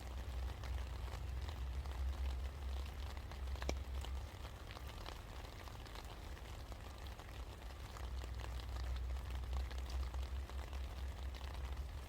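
Rain falling, with many scattered drops ticking and a steady low rumble underneath; one sharper drop strike stands out a little under four seconds in.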